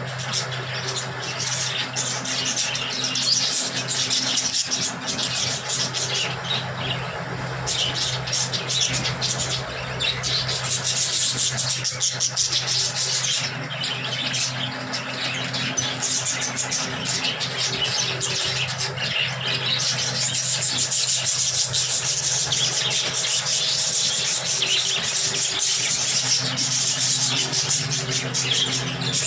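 A flock of budgerigars chattering and chirping continuously, over a steady low hum.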